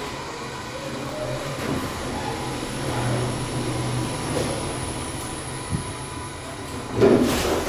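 Underground train station hall ambience: a steady low hum under an even wash of background noise, with a single small click near the end.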